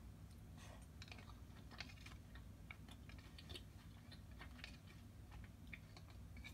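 Faint close-up chewing: soft, irregular mouth clicks while eating.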